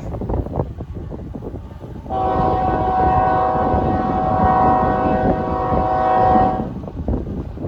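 A freight locomotive's air horn sounds one long blast of several tones at once. It starts about two seconds in and lasts about four and a half seconds. Wind rumbles on the microphone around it.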